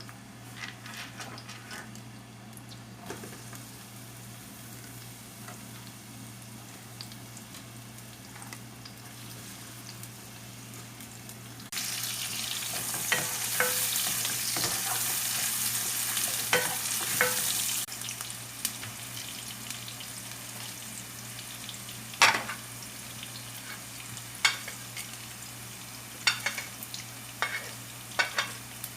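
Food frying in oil in a pan, stirred with a utensil that knocks and scrapes against the pan now and then. About twelve seconds in, the sizzling grows suddenly much louder for about six seconds, then drops back. A steady low hum runs underneath.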